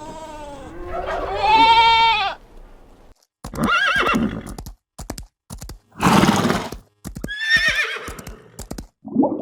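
A run of about five animal cries, high, wavering calls with short silent gaps between them, one of them harsher and noisier.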